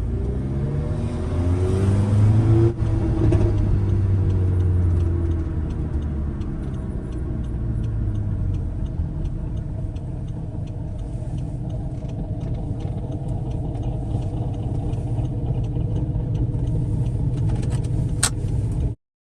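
Audi TT's engine under way on the road, revs climbing over the first few seconds with a brief break in the sound about three seconds in, then settling to steadier running with low road rumble. The sound cuts off abruptly near the end.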